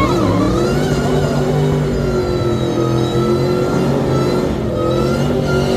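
A race car's engine at high revs under hard acceleration. Its pitch climbs over the first second, holds fairly steady with a slight dip, and rises again near the end.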